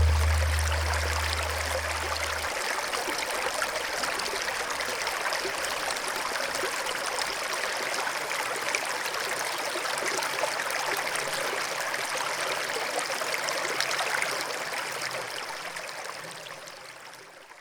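Running water of a forest stream, a steady rushing that fades out over the last few seconds. A low held bass note from the music dies away about two seconds in.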